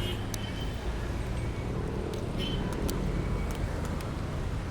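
Steady low road and traffic rumble heard while riding, with a few faint sharp clicks.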